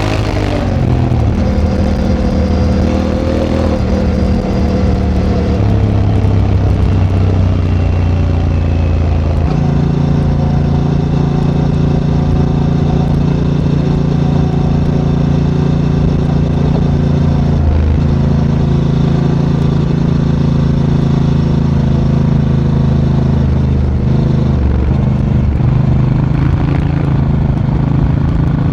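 Honda Africa Twin motorcycle engine heard from on board while riding, running steadily under load. The engine note drops just after the start, shifts to a new steady pitch about ten seconds in, and dips briefly a few more times, as with throttle changes or gear shifts.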